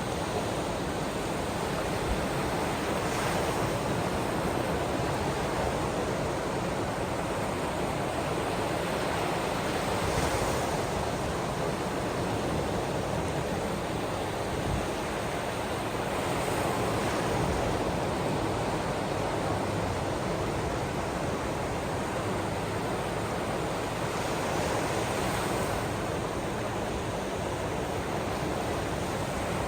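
Ocean surf: a steady wash of waves, with a slight swell every several seconds as a wave breaks.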